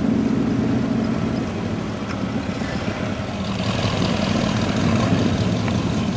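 A car engine idling with a low, steady rumble. It fades a little in the middle and picks up again after about three and a half seconds.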